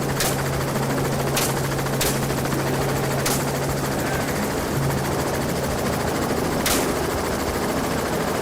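Rifle shots fired from a hunting helicopter: about five sharp cracks at uneven intervals over the steady, noisy running of the helicopter.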